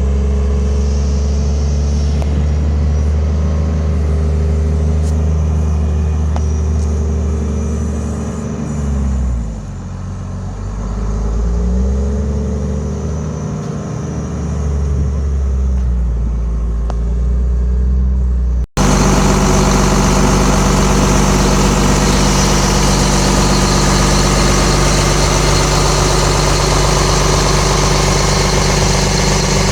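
Diesel engine of a Case 921C/2 loader running steadily, its speed dipping and coming back up twice around the middle. Near two-thirds through the sound cuts abruptly to a louder, steady running with more hiss.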